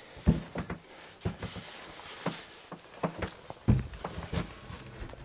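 Irregular knocks and thumps of wooden cabin panels being handled and fitted together, with the heaviest thump a little past halfway.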